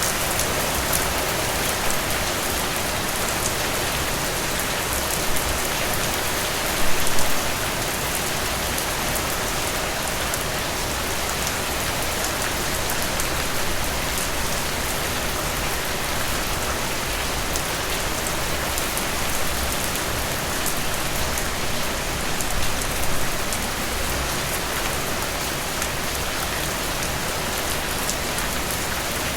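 Heavy rain falling steadily, a dense even hiss of drops on surfaces. It swells briefly louder twice, about a quarter of the way in and again about three quarters of the way in.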